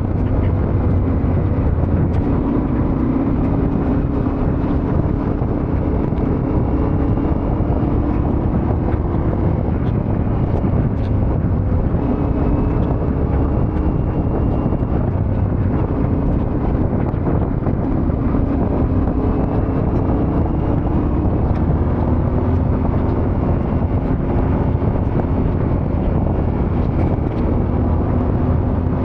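Yamaha Ténéré 700's parallel-twin engine running steadily under way, its pitch drifting gently up and down with the throttle, over a steady rush of wind and road noise.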